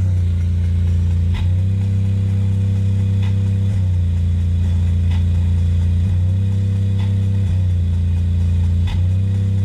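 Sony Xplod subwoofer playing a bass-heavy track: a deep, loud bass note held almost without pause, breaking briefly every couple of seconds.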